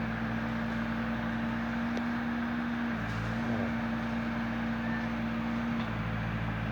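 A motor runs steadily with a droning hum whose note changes a few times, over a constant background hiss. There is one short click about two seconds in.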